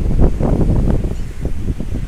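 Wind buffeting the microphone: a loud, irregular low rumble of gusts.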